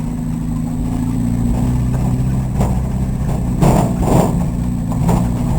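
Volkswagen Rabbit's engine idling steadily, heard from inside the car, with a few short noises around the middle.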